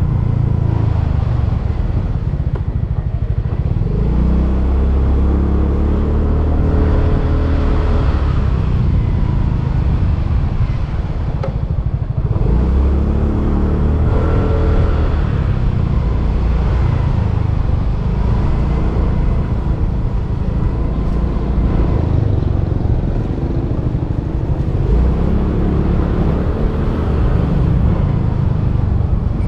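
Motorbike engine running while riding, its note rising and falling with speed, over a heavy low rumble of wind on the microphone.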